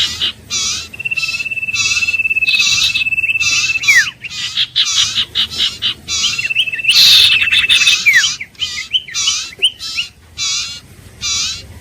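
Iora singing: a rapid series of harsh, buzzy notes about twice a second, with a long level whistle held for a second or more, twice, and a few short downward-slurred whistles.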